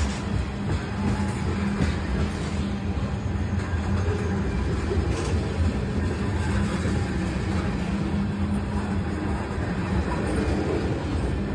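Freight cars of a CSX local freight train rolling past close by: a loud, steady rumble of wheels on rail.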